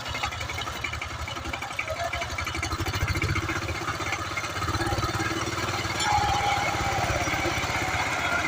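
Diesel engine of a power tiller running steadily with a rapid, even beat.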